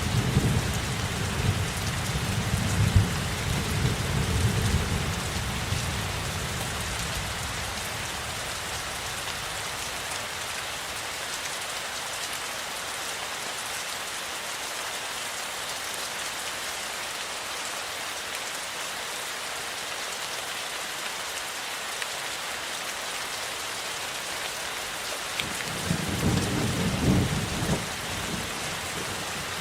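Steady rainfall hissing evenly, with low rolling thunder rumbling over the first few seconds, fading away, then rumbling again near the end.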